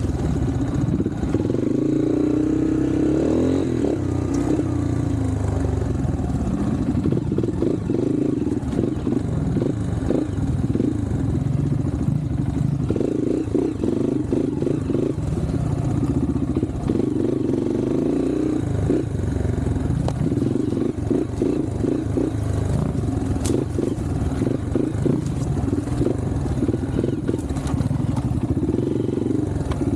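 Off-road trail motorcycle engine running under load on a forest trail, its revs rising and falling again and again as the rider works the throttle.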